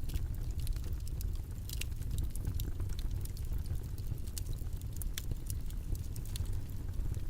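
Steady low rumbling noise, the white-noise bed of a study session, with faint irregular clicks and ticks scattered through it.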